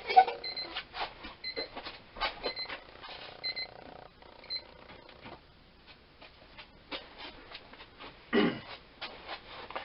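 Home weather station alarm beeping, a short high beep about once a second, warning of an approaching storm; the beeping stops about four and a half seconds in. Scattered clicks and handling noises run alongside, with a brief louder sweeping sound near the end.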